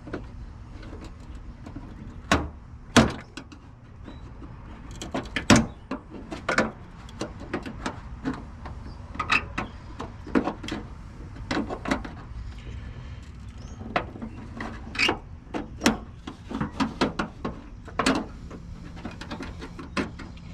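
Irregular sharp clicks and knocks, a few of them loud, from hand work on a car's brittle old plastic running-light housing as it is cut and worked loose.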